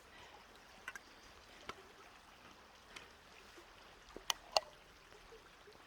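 Faint steady flow of a stream, with a few short sharp clicks and knocks, the two loudest close together about four seconds in.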